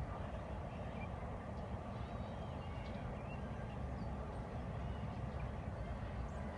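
Steady low outdoor rumble with a few faint, short chirps higher up, like birds.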